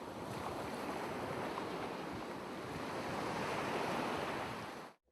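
A steady rushing noise, with no tone or rhythm in it, that fades in and cuts off abruptly near the end.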